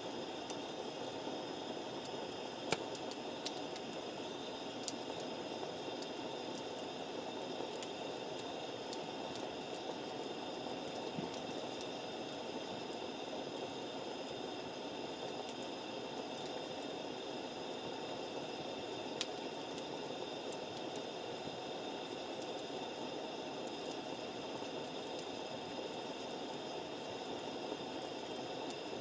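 Wood campfire burning with a steady hiss and a few sharp pops, several in the first five seconds and one more near the middle.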